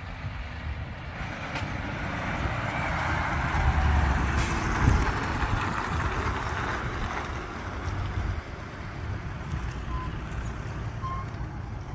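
A truck passing, its engine and tyre noise building to a peak about four to five seconds in, then fading.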